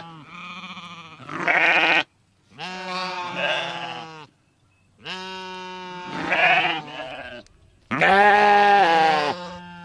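A sheep bleating: four long wavering bleats in a row with short pauses between them, the last the loudest.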